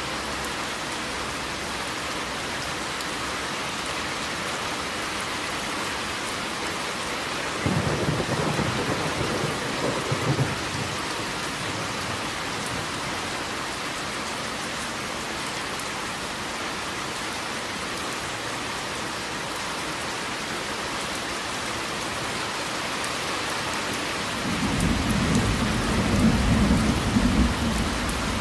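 Steady heavy rain falling, with thunder rumbling twice: a short roll about a quarter of the way in and a longer, louder one starting near the end.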